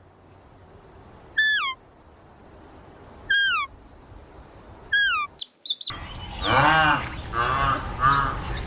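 Bird calls: three short, high, hooked calls about two seconds apart, then from about six seconds in a busier run of repeated calls.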